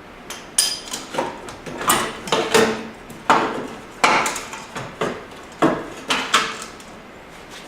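Hand tools knocking and clanking against metal parts in an engine bay: about a dozen sharp, irregular knocks over roughly six seconds, some with a short ring.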